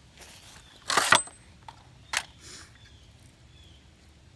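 Heavy RC truck crashing into a small Ferrari: one loud crash about a second in, then a lighter knock about a second later.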